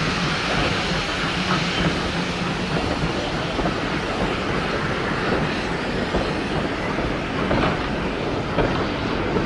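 A train rolling along the track, its wheels clicking irregularly over the rail joints in a steady rumble.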